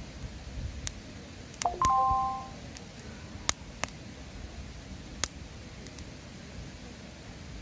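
Wood bonfire crackling, with scattered sharp pops over a low rumble of the flames. About two seconds in, a short ringing tone of under a second stands out as the loudest sound.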